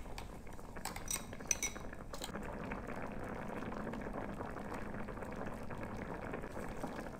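Pot of hot and sour noodle soup bubbling at a boil, a steady simmering hiss, with a few sharp clinks of a utensil against the pot in the first two seconds.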